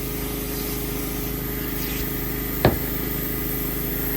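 Electric motor of a shop machine running with a steady hum, with one sharp click about two-thirds of the way through.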